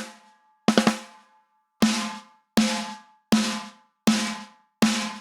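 A sampled snare drum hit repeatedly, about once every three-quarters of a second, each stroke a sharp crack with a short ringing body tone. The snare is going through SSL DrumStrip's 'Snare Crushed' preset: added low end, heavy compression and an inverted transient shaper that softens the attack and lengthens the decay, and from about two seconds in the hits come through fuller and longer.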